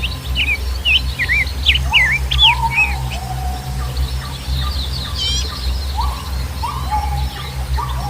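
Several birds calling together. Quick chirps come in the first few seconds and a fast trill about five seconds in, while a lower, falling call repeats about once a second in the second half. A steady low rumble runs underneath.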